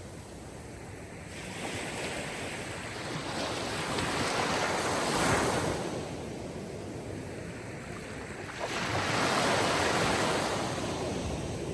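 Sea waves breaking on a shore, the surf swelling and falling back twice: one wave peaks about five seconds in, the next about nine seconds in.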